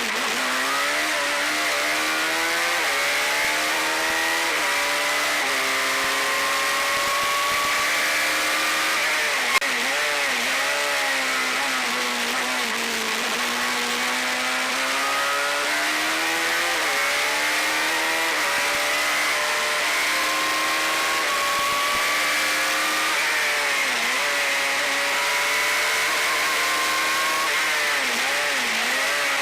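Suzuki Hayabusa inline-four motorcycle engine in a single-seater race car running hard, revving up through the gears with the pitch climbing and dropping back at each shift. It dips with quick downshift blips under braking several times. A brief sharp click comes about ten seconds in.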